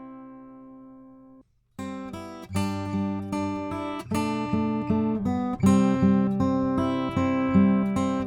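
Strummed acoustic guitar chords played through a Warm Audio EQP-WA tube equalizer with its low band boosted. A held chord dies away and cuts out for a moment about a second and a half in, then the strummed chords start again, louder.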